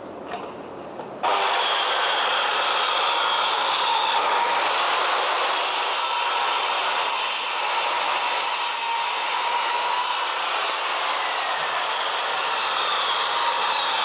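Makita N5900B 9¼-inch circular saw with a construction blade, starting suddenly about a second in and running loud and steady with a whine that drifts slowly in pitch as it cuts through timber with wire nails in it.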